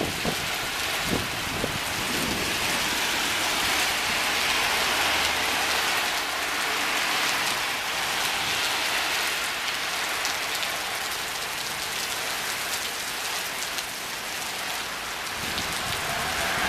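Heavy downpour: a steady hiss of rain falling hard on surfaces.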